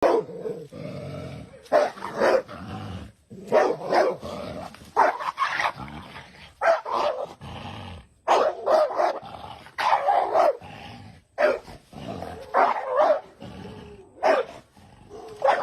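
A dog barking again and again, about one bark a second and often in pairs, at a snake it is confronting.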